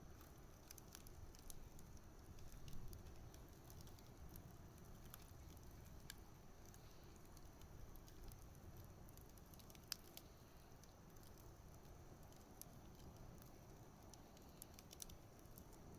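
Wood campfire crackling faintly, with scattered sharp pops over a low steady rumble; the loudest pop comes about ten seconds in.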